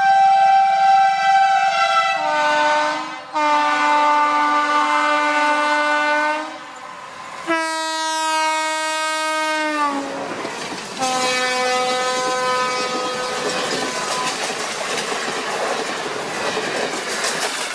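Indian Railways locomotive horn sounding several long blasts, some as a multi-note chord, one sliding down in pitch about ten seconds in, followed by the rush and clatter of the train going by with the horn still sounding over it.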